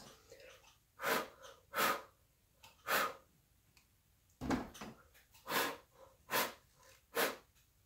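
A person blowing short puffs of breath onto wet acrylic paint to push the edges of the pour, about seven separate puffs with short pauses between them.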